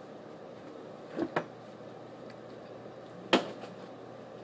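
A few sharp clicks over a steady low hum: a quick pair about a second in, then a single louder crack a little past three seconds.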